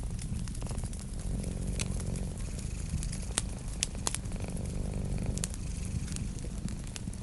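A cat purring steadily as a low, pulsing rumble, with a wood fire crackling over it in scattered sharp pops, a few of them louder.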